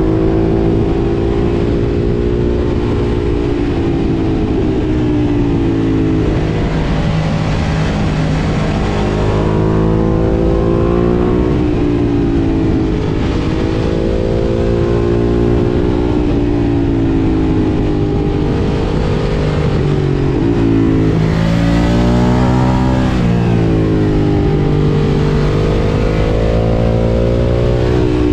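Ducati Monster 1200 S's L-twin engine through an Akrapovič exhaust, under way on the road. The engine note climbs and falls again and again as the bike accelerates and backs off, with a sharp rise about three-quarters of the way through.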